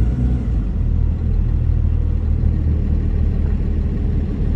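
Steady low rumble of a box truck's engine and road noise, with no sudden events.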